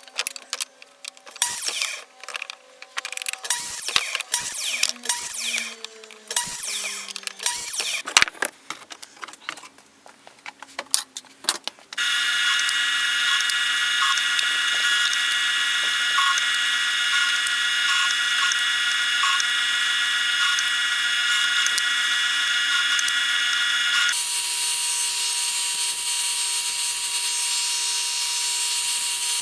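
Scattered knocks and clatter of wood being handled. From about twelve seconds in, a power tool runs steadily, and its sound changes partway through.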